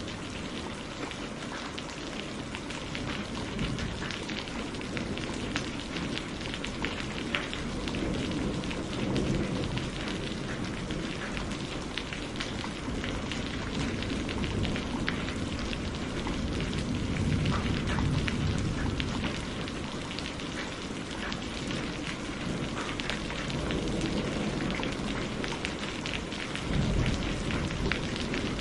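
Heavy rain falling steadily, with many individual drops ticking. Low rumbles of thunder swell up several times: around nine seconds in, again around seventeen seconds, and near the end.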